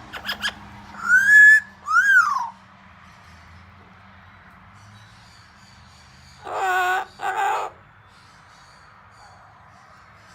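A pet parrot whistling two loud notes, the first rising and held, the second rising then falling, after a few quick clicks. About four seconds later come two short harsh calls.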